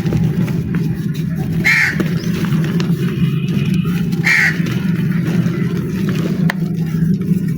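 Two short crow caws, about two and a half seconds apart, over a steady low rumble, with a few faint clicks.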